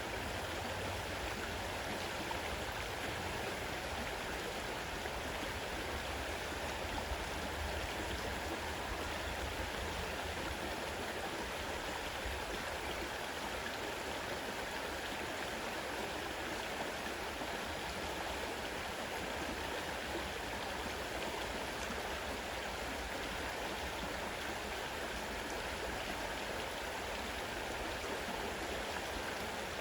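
Fast-running river water rushing over stones, a steady even rush with no breaks.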